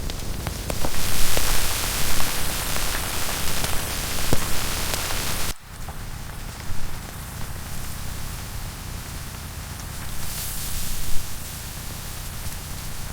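Rain falling steadily, a constant hiss with scattered drop ticks. About five and a half seconds in the hiss drops abruptly to a quieter, steadier level.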